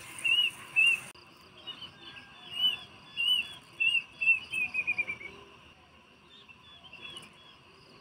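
A bird calling: a series of short, arched whistled notes, a few a second, that speed up and fall in pitch before stopping about five seconds in. Insects chirp steadily in a fast, even rhythm underneath.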